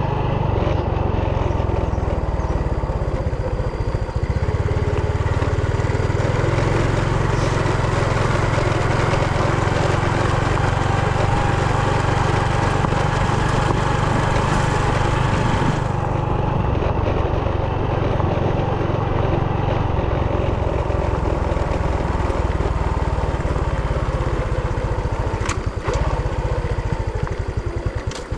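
Brush cutter engine running steadily at speed for the whole stretch. Its tone shifts about 16 seconds in, and near the end the level starts to waver.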